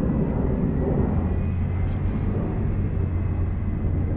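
Steady low rumble of jet airliner engines, with no single event standing out.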